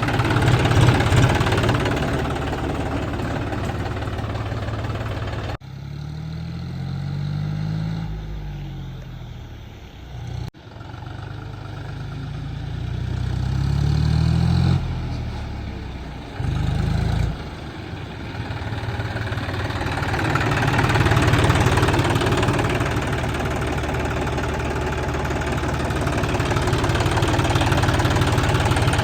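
A tractor engine running as it is driven, with its pitch rising and falling in a few stretches as the engine revs up and down. The sound cuts off abruptly about five and a half seconds in and again about ten and a half seconds in, then runs on steadily.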